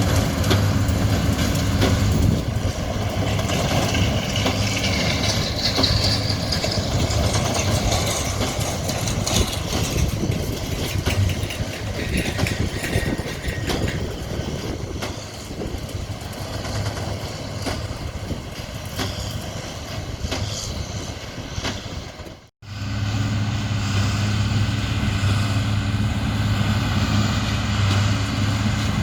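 Heavy diesel machinery engine running steadily with a low hum, with mechanical rattle and noise through the middle. The sound cuts out abruptly about 22 seconds in, then a steady engine hum picks up again.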